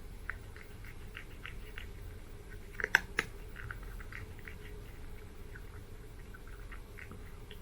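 A Kinkalow cat chewing its food, a steady run of small irregular crunches, with a couple of sharper, louder clicks about three seconds in.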